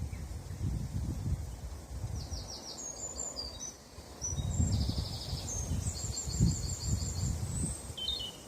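Wind buffeting the microphone in gusts, with small birds singing high chirps and quick trills in the background.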